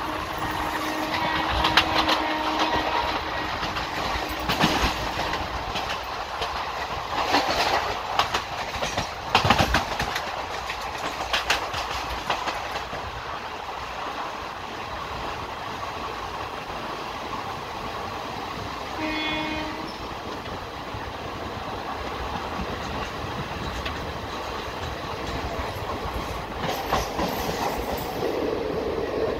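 Passenger train running, heard from an open coach doorway: wheels clattering over rail joints and points, with many sharp knocks in the first half, then a smoother rumble as it runs in along the platform. A short horn blast sounds about two-thirds of the way through.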